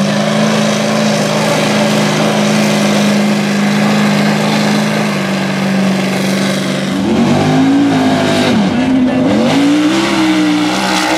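Mega truck racing engine running hard at steady high revs, then from about seven seconds in revving up and down several times in quick swings.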